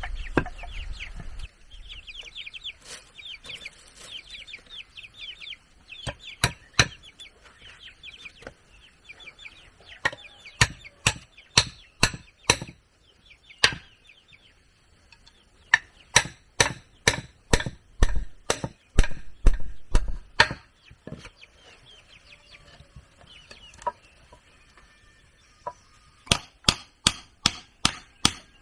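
Chickens clucking and peeping during the first few seconds, then a tool striking wood in runs of sharp blows, about two a second, with pauses between the runs.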